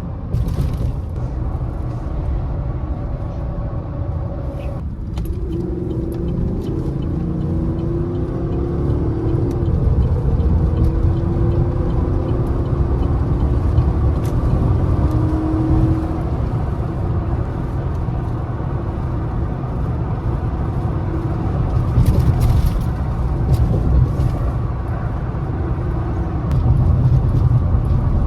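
Lifted Chevrolet Silverado pickup driving, with a steady low rumble of engine and road throughout. Between about five and sixteen seconds in, the engine note rises several times and steps back down as the truck accelerates.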